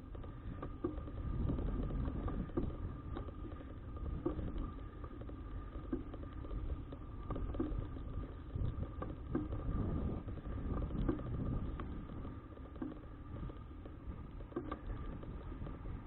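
Wind buffeting a bicycle-mounted action camera's microphone while riding, a fluttering low rumble with scattered small rattles and ticks from the bike and a faint steady whine underneath.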